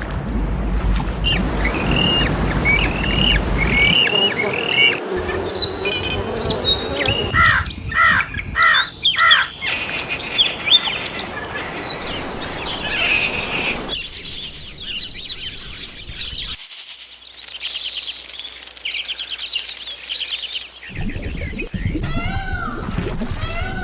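Birds chirping and calling in a run of short recordings, one after another: quick repeated chirps over background noise at first, then clusters of varied calls, with a buzzy stretch partway through.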